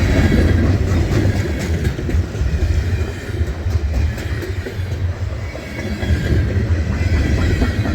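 Freight train of tank cars rolling past close by: a steady heavy rumble of wheels on rail, with scattered sharp clicks over the rail joints and a faint high wheel squeal.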